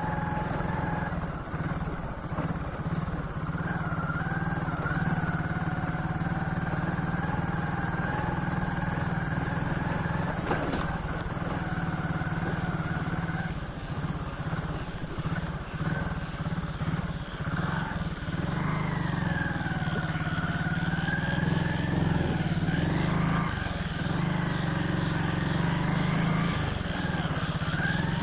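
Motorcycle engine running under way, over a steady low rumble, its pitch rising and falling with the throttle in the second half.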